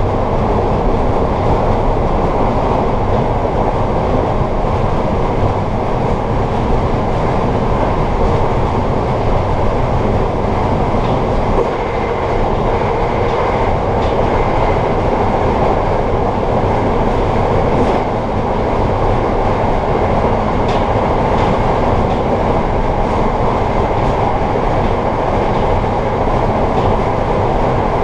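Amtrak Empire Service passenger train running along the line, heard from inside the rear car: a steady rumble of wheels on rail, with a few faint clicks in the middle.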